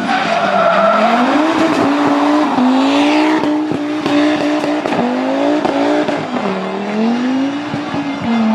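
Rally car engine revving hard, its pitch climbing and then dropping again with each gear change. A run of short sharp cracks comes through the middle.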